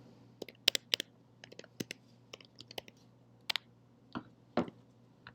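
Typing on a computer keyboard: irregular clicking of keys, with a few sharper, louder key strikes spread through.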